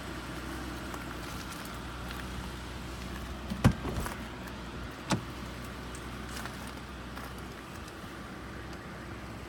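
Mercedes-Benz CL600's 5.5-litre twin-turbo V12 idling steadily, with two sharp clunks from the car, the louder one just under four seconds in and a second about a second and a half later.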